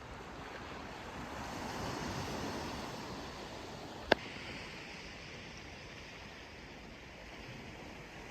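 Steady rushing outdoor noise that swells and fades about two seconds in, with a single sharp click about four seconds in.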